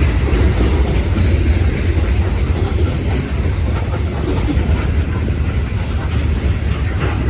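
Loaded coal hopper cars of a long freight train rolling past, a steady loud rumble of steel wheels on rail.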